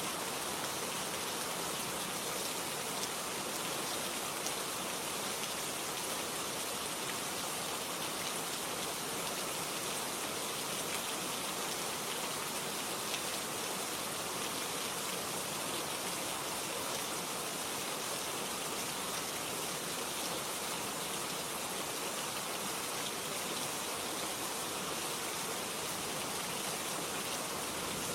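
Steady, even rain falling, a constant hiss of many small drops on a surface, without a break.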